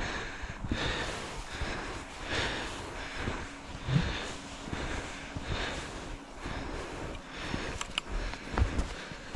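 Skis swishing and crunching over snow in steady strides, about one stride a second, with a few sharp clicks near the end.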